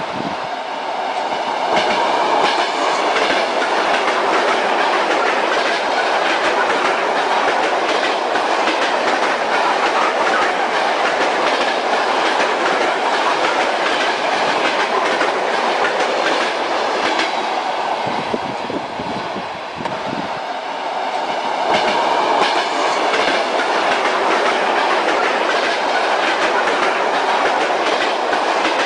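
Train wheels clattering over the rail joints, with the steady rumble of the moving railway carriage; the sound eases briefly about two-thirds of the way through, then comes back up.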